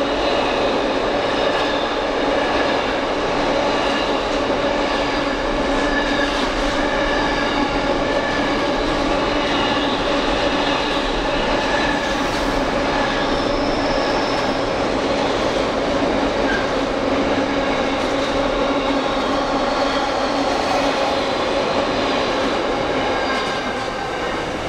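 A train at close range, making a steady, loud noise with faint whining tones over it.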